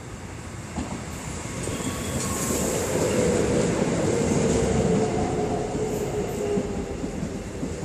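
A commuter electric multiple-unit train pulls into the platform and runs past close by, its rumble growing loudest about halfway through. A wavering metallic squeal joins it midway.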